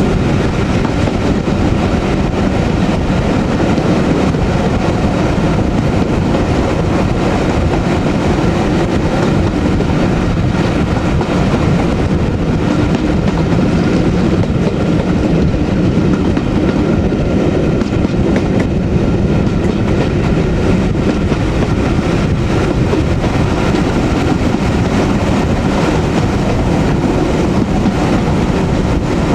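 Train running steadily behind Class 37 diesel locomotive 37667, heard from on board: a constant mix of engine noise and wheels on the rails, with no pauses or sudden events.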